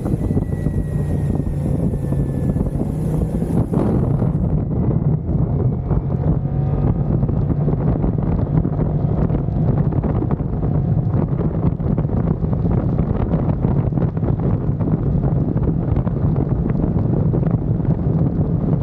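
2023 Kymco AK550i maxi-scooter's 550 cc parallel-twin engine running at speed with a steady drone, under heavy wind buffeting on the microphone.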